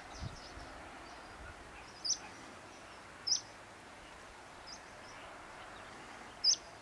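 Canary Islands chiffchaff giving short, high single call notes, spaced a second or more apart: three clear calls and one fainter one, over steady background noise.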